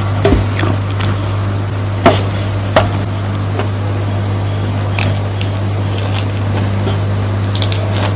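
Close-miked eating: wet mouth and chewing sounds with a handful of short sharp clicks, the loudest about two seconds in, over a steady low hum.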